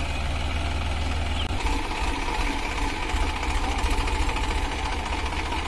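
Massey Ferguson 5245 DI tractor's diesel engine running steadily. Its note changes about a second and a half in, and it runs a little louder after that.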